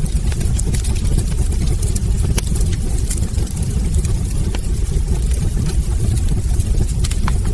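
Wood fire burning in a fireplace: a steady low roar of the flames with scattered sharp crackles and pops from the burning logs, a few louder snaps among many small ticks.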